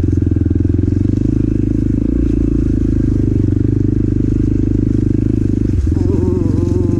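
Motorcycle engine running steadily under way, picked up by a microphone inside the rider's helmet. The engine note changes briefly about six seconds in.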